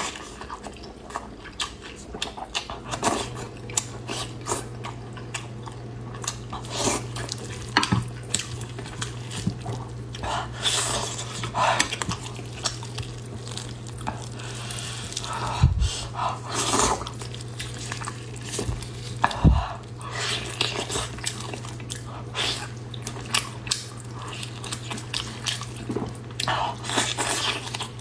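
Close-up eating sounds of a person chewing and biting pork knuckle: wet smacking chews with frequent sharp clicks and the odd clink of dishes, over a steady low hum that comes in a few seconds in.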